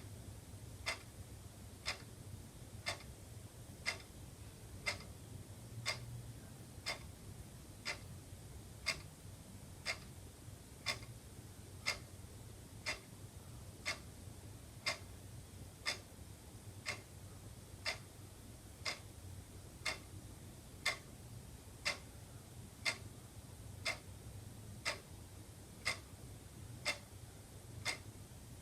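Wall clock ticking steadily, one sharp tick about every second, over a faint low hum.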